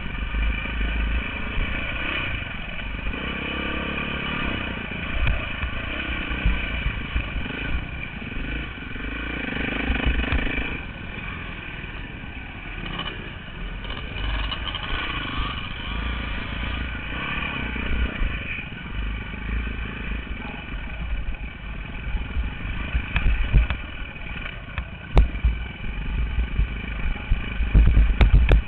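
Dirt bike engine running as the bike is ridden, its pitch rising and falling as the throttle opens and closes. A few sharp knocks and clatter come near the end.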